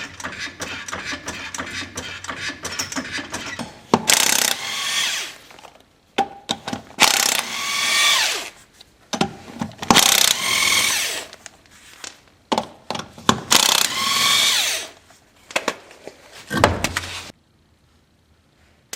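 Power tool driving fasteners: rapid clicking for the first four seconds, then four bursts of about two seconds each with the motor speeding up and slowing down, and a short fifth burst near the end.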